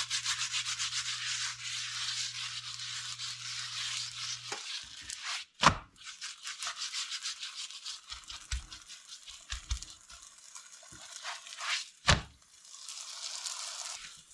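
Oil roti frying and sizzling in hot oil, with scraping and two sharp knocks about six and twelve seconds in. The sizzle is loudest in the first few seconds.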